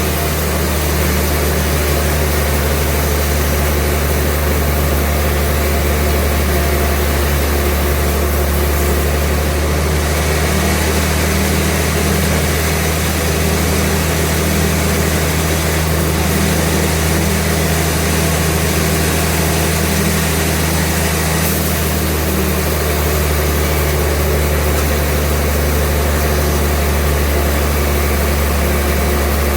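Sawmill machinery running steadily: a constant low engine hum with a steady noisy rush over it, unchanging throughout.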